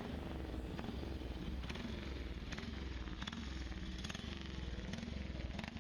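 A motorcycle engine running faintly and steadily, with a few light clicks.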